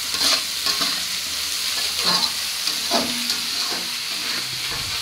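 Masala paste sizzling as it fries in an aluminium kadai, stirred with a utensil that scrapes the pan now and then.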